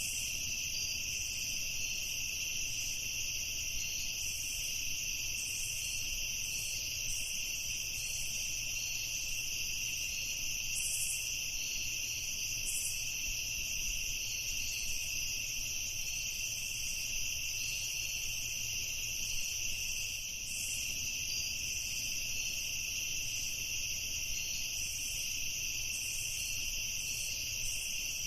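Steady chorus of crickets chirping continuously, in high bands, with a faster pulsing trill above them.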